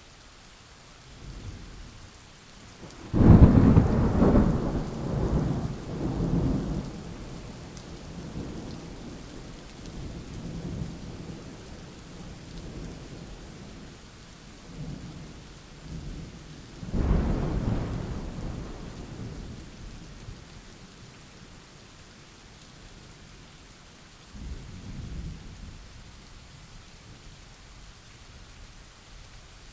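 Steady rain with thunder: a loud thunderclap about three seconds in that rolls on for several seconds, a second clap about halfway through, and a fainter rumble near the end.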